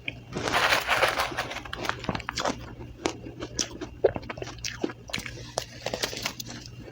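Close-up biting and chewing of soft, powdery crushed ice: dense crunching about a second in, then irregular crisp crackles and crunches as the ice is chewed.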